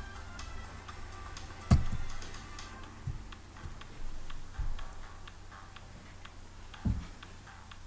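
Irregular light clicking with a few dull thumps, the loudest about two seconds in, over a steady low hum.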